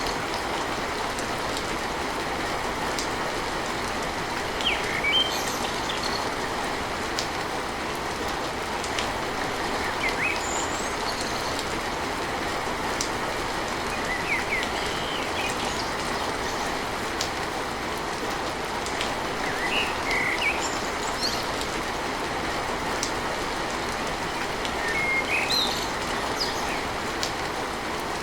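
Steady rain falling on a tin roof, an even unbroken hiss, with short bird chirps every few seconds.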